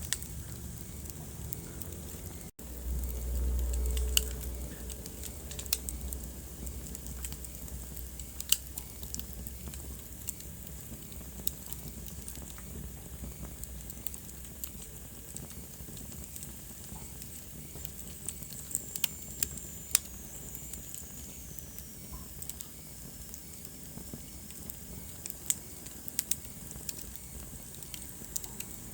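Wood fire crackling in a fireplace: scattered sharp pops and snaps over a low rumble of the flames. The sound drops out for an instant about two and a half seconds in, and the low rumble is louder for a couple of seconds after.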